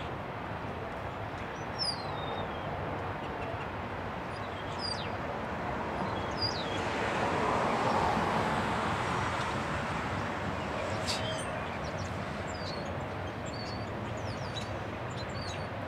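Double-stack intermodal container cars rolling past on the rails: a steady rumble of wheels on track that swells a little about halfway through. Birds chirp over it several times, with short falling calls.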